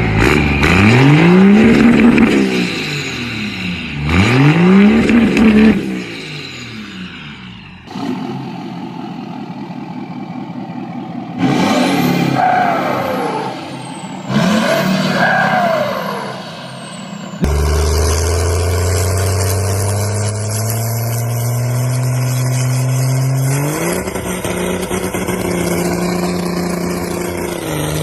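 Vehicle engine sounds. An engine revs up and back down twice, then comes a rattling stretch and two sweeps with a falling high tone. After that a steady low engine drone runs on and steps up in pitch about three-quarters of the way through.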